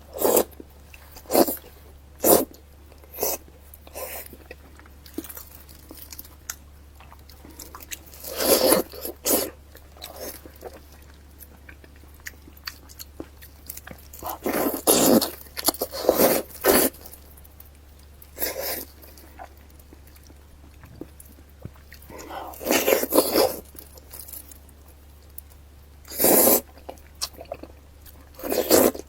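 Close-miked eating sounds of someone biting into and chewing pieces of pork intestinal fat: a few sharp mouth clicks at first, then several clusters of wet chewing and biting separated by quieter pauses.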